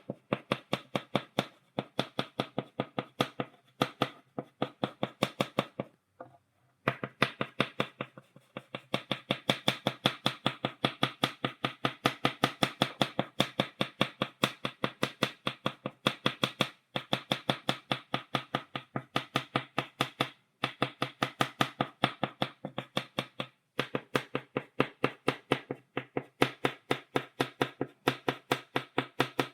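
Chalk tapping against a blackboard to stipple dots: quick sharp clicks, about five or six a second, in runs broken by short pauses, the longest a little after six seconds in.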